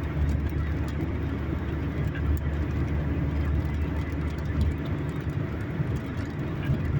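Steady low rumble heard inside a car, with light rain ticking on the car. The rumble eases about two-thirds of the way through.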